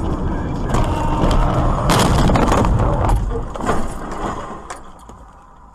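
Car collision: a car running on the road, then a loud crunching crash with rattling, loudest about two to three seconds in, dying away to scattered clicks.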